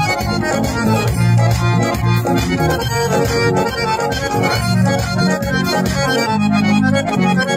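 Harmonium played continuously, a quick melody over sustained reedy chords and a steady low drone.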